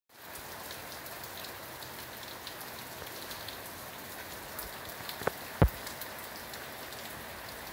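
Steady rain falling on a street, a constant hiss with many individual drops ticking close by. Two sharp knocks come a little past halfway, the second the loudest.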